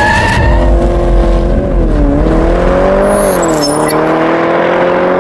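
A car engine revving, its pitch dipping twice and climbing back up, laid over the intro's burnout graphics.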